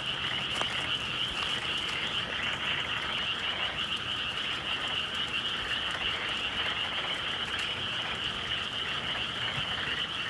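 A dense chorus of many frogs calling steadily in a continuous, fast-pulsing trill, with a few faint crackles scattered through it.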